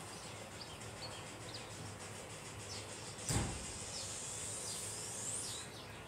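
Faint high chirps of birds in the background, scattered through the quiet, with a single thump a little over three seconds in.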